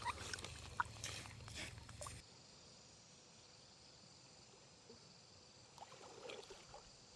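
Faint outdoor stream-side sounds: about two seconds of rustling and small knocks, then an abrupt cut to a faint, steady chirring of insects such as crickets, with a few soft noises near the end.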